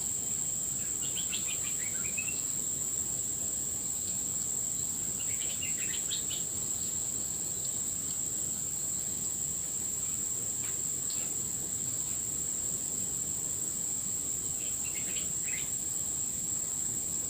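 A steady, high-pitched insect drone from crickets, with a bird calling three times in short runs of quick falling chirps: near the start, about six seconds in, and near the end.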